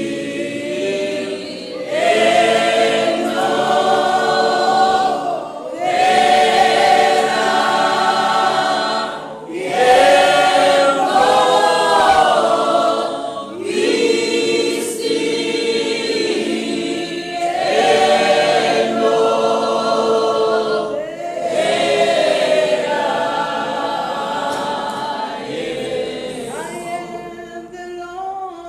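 A group of voices singing a slow worship song together in phrases of a few seconds each, with short breaks between phrases, fading somewhat near the end.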